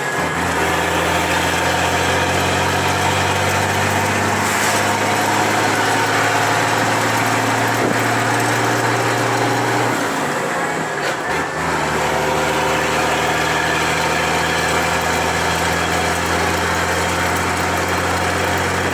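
Motor vehicle engine idling steadily, its note changing briefly about ten seconds in before settling again.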